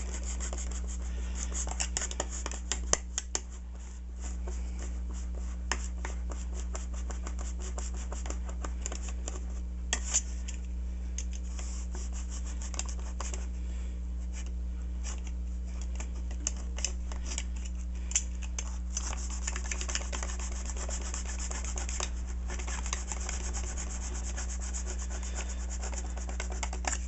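Hobby knife blade sawing through the foam of a model airplane's cockpit, a dense, irregular run of small scratching and rubbing strokes, over a steady low hum.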